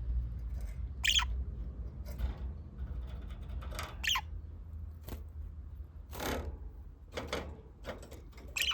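Budgerigars giving short, scattered chirps, a few of them sliding down in pitch, over a steady low hum.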